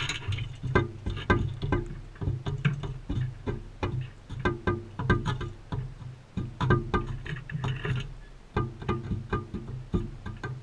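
Background music: a light tune of plucked, pizzicato string notes in an even rhythm over a steady bass line.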